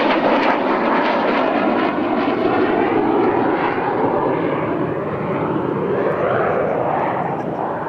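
Aircraft engine noise from a display flypast: a loud, steady engine sound with a pitch that slowly slides and bends as the aircraft passes, fading near the end.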